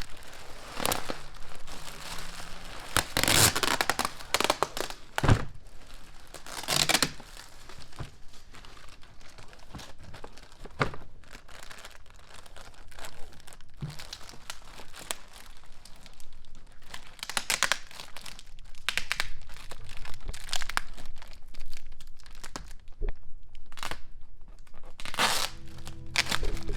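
Packing material being torn and crumpled by hand while items are unpacked from a cardboard box, in irregular rustling rips. Music comes in near the end.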